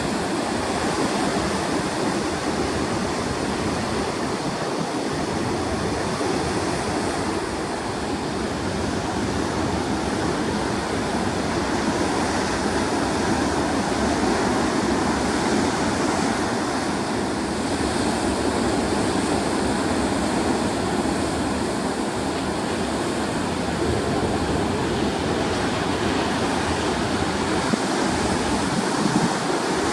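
Heavy surf from big seas: waves breaking in a steady, continuous rush of noise with no single crash standing out.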